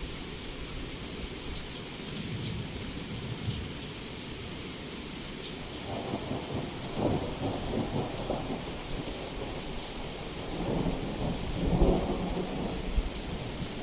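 Heavy rain falling steadily, with two rolls of thunder: one about six seconds in and a louder, crackling one near the end.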